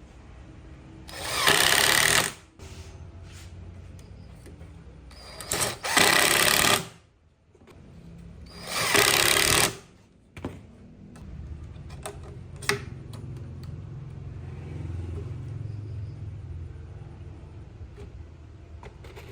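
A workshop power tool run in three short bursts of about a second each, the first building up before holding steady. Between bursts there is a lower steady hum with scattered clicks and knocks.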